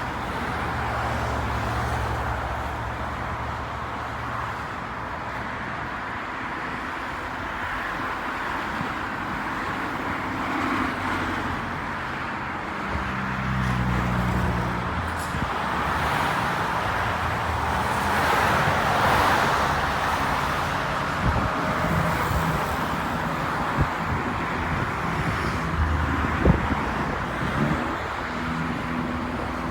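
Steady road traffic noise: cars going by with a low engine hum, one passing louder about two-thirds of the way through.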